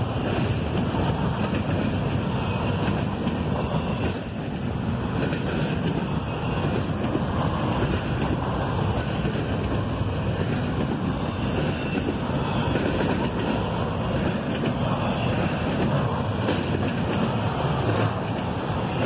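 Steady rumble of double-stack intermodal well cars rolling past on steel wheels, with wind buffeting the microphone.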